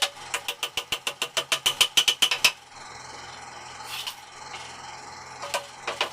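Rapid hammering on a wooden frame, sharp knocks at about seven a second. The knocks stop about two and a half seconds in and start again near the end.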